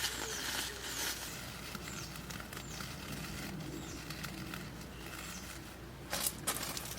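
A bird giving short, high chirps that each slide downward, repeated every second or so, with a few sharp rustles near the end.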